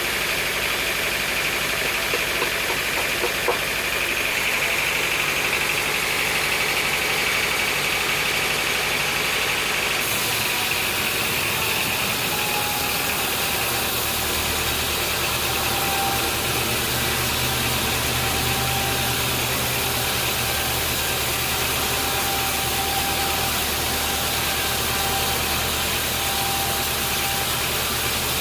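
Sawmill machinery running steadily: a motor drone with a high whine over it, changing abruptly about ten seconds in to a lower, steadier engine sound.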